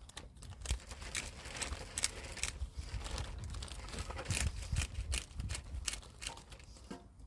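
Black pepper being added to a plastic marinade bag: dense, irregular crinkling and crackling that runs for several seconds and eases off near the end.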